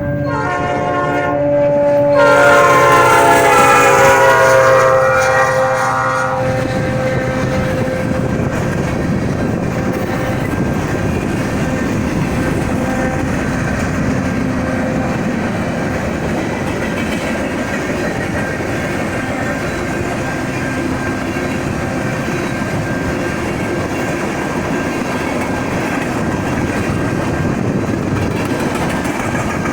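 Train horn blowing loudly for about four seconds, then the steady rumble and clickety-clack of rail cars rolling slowly past the crossing.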